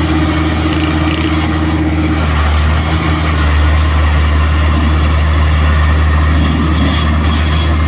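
Diesel engine of heavy road-construction equipment running steadily with a deep hum. A higher whine in it stops about two seconds in, and the sound gets a little louder a second later.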